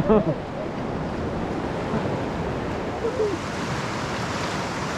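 Rushing white water of a river rapid, a steady wash of water noise around a raft, with brief shouts from the rafters right at the start and again about three seconds in.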